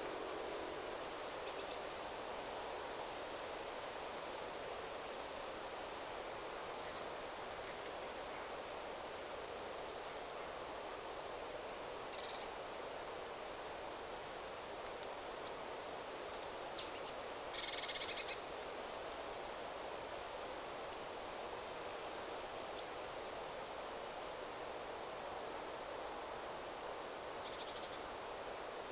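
Wind rustling steadily through forest trees, with small birds giving short, high chirps here and there and a louder burst of calls about two thirds of the way in.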